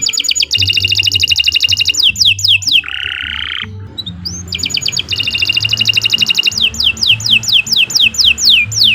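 Domestic canary singing a long, unbroken song: fast high trills, a lower buzzy phrase about three seconds in, then another long rapid trill and a run of quick down-slurred whistles near the end.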